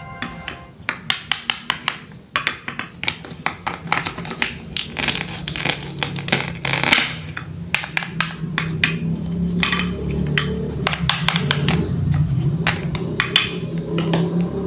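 A run of quick, sharp taps and clicks, several a second, over a low steady hum.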